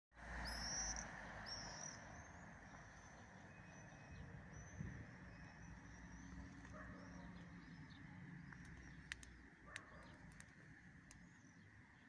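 Faint outdoor birdsong: two louder rising high notes in the first two seconds, then a run of softer, short repeated notes, with a couple of light clicks about nine seconds in.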